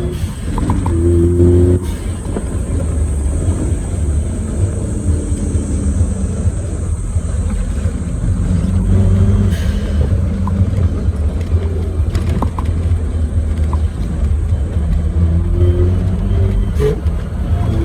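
Suzuki Jimny JA11's small turbocharged three-cylinder engine running while driving on pavement on Geolandar X-MT mud-terrain tyres, with a steady low drone underneath. Engine pitch rises as it accelerates about a second in and again near the end.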